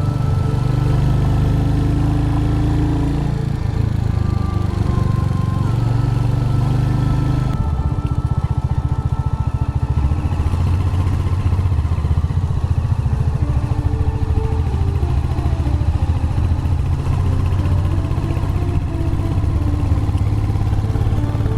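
Royal Enfield Hunter 350's single-cylinder engine running under way. About seven seconds in the sound changes, duller, with its rapid firing pulses coming through more plainly.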